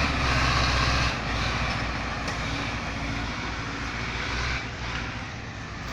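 Tractor engine running under load, louder for about the first second and then dropping in level and staying steady.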